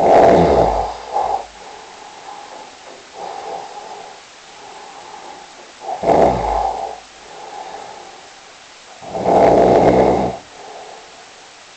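Snoring: three loud, rasping snores of about a second each, one at the start, one about six seconds in and one about nine seconds in, with quieter breathing sounds between them.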